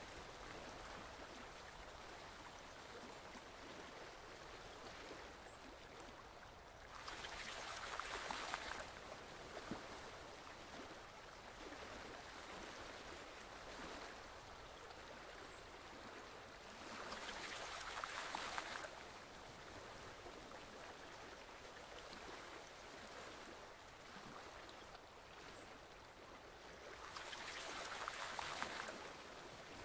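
Forest stream flowing steadily, with a louder swell of rushing water about every ten seconds, three times.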